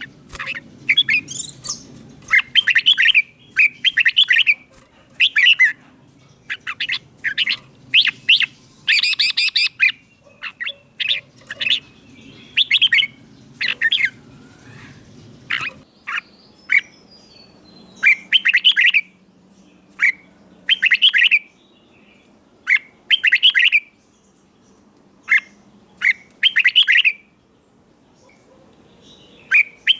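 Red-whiskered bulbul singing: short, bright phrases of a few notes each, repeated every second or two, in the southern Thai song style that keepers play to train young birds.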